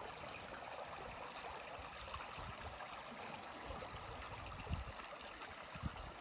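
River water running steadily, a continuous rushing hiss. A few brief low thumps near the end.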